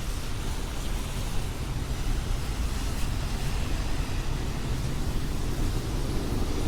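Steady city-street traffic noise in the rain: a continuous low rumble with a hiss over it and no single event standing out.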